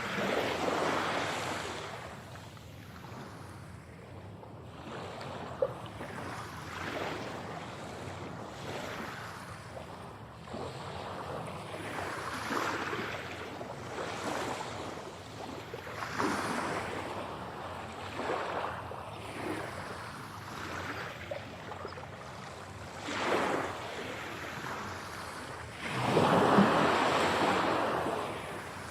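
Sea waves breaking and washing in and out in slow surges every few seconds, the biggest wave crashing near the end. Mixed as 8D audio, panned around the listener.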